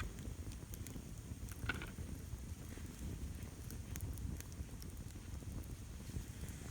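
Wood campfire burning, with scattered sharp crackles over a steady low rumble.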